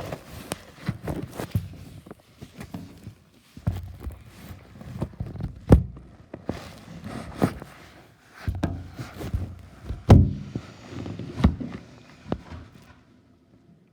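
Gusts of strong wind buffeting the microphone in rising and falling bursts, mixed with irregular knocks and thumps. It drops away to near quiet shortly before the end.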